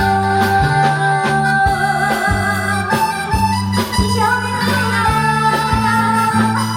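Live band music with a steady beat: drums, a repeating bass line, and a held melody line on top.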